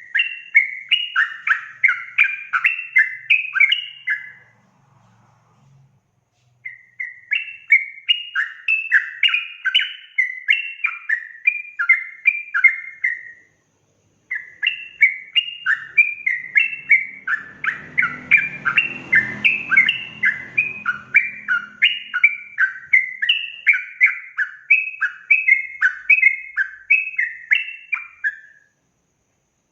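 Yellow-vented bulbul (trucukan) singing a fast, rapid-fire song of short bubbly whistled notes, about four a second, in long runs that break off twice briefly. A faint low rumble sits under the song for a few seconds past the middle.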